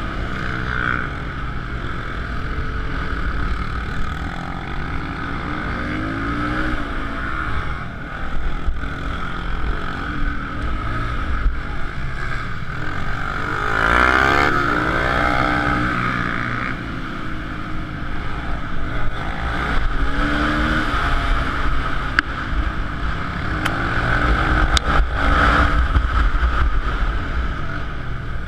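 Small four-stroke pit bike engines racing, the revs repeatedly climbing and dropping as the bikes accelerate and shift.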